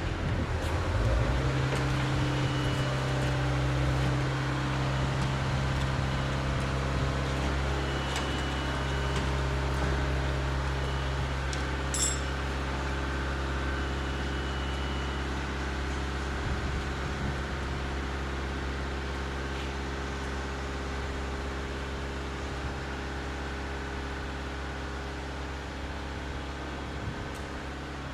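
A machine running steadily with a low, even hum that sets in about a second in and slowly gets a little quieter, with a single brief tick around the middle.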